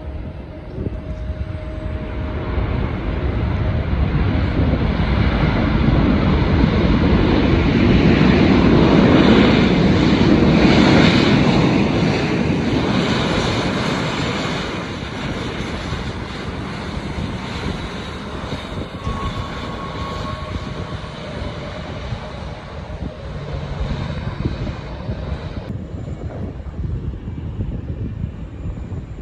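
Arriving airliner's engines passing by, swelling to a peak about a third of the way in and then fading away.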